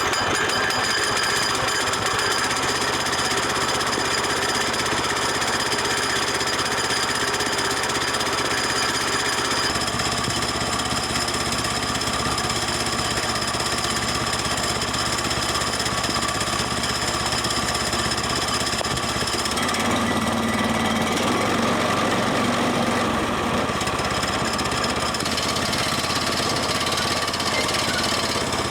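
Small gasoline engine of a Woodland Mills portable band sawmill running steadily just after a pull start, on its first run since last fall. Its note shifts about ten seconds in and again about twenty seconds in.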